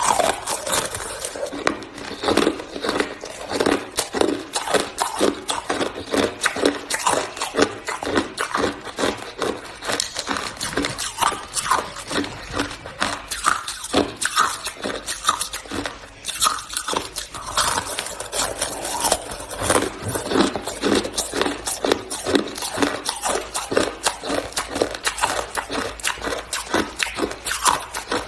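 Close-up biting and chewing of hard, crunchy shaved ice, with dense, irregular sharp crunches several times a second that pause briefly now and then.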